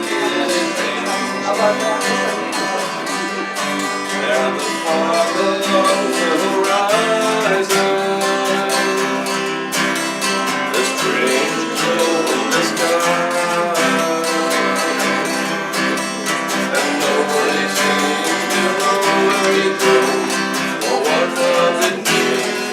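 Music: an acoustic guitar strummed in a steady rhythm, with a singing voice over it.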